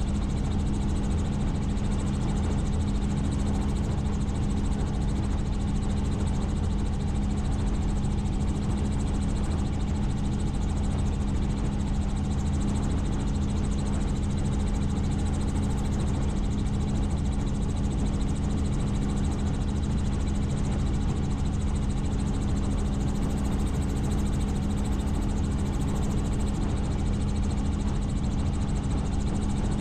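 Helicopter in steady flight: an unchanging drone of rotor and engine with a strong low hum.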